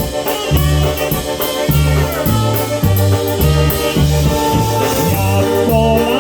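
Polka band playing live, with the bass alternating between two notes under a steady, regular drum and cymbal beat.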